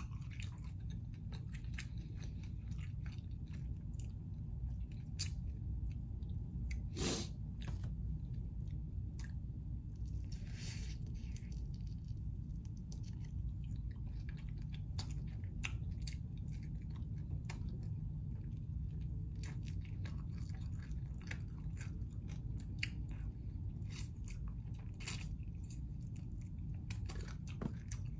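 A person chewing and biting chicken wings close to the microphone: many small wet mouth clicks and crunches, over a steady low hum.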